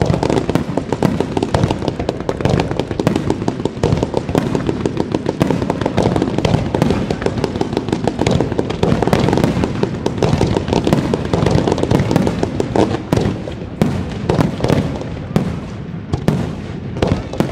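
Fireworks display: a dense, unbroken barrage of loud bangs and crackling reports, many a second.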